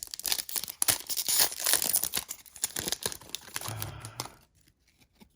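A foil trading-card booster pack being torn open and crinkled, a dense crackling that stops about four and a half seconds in.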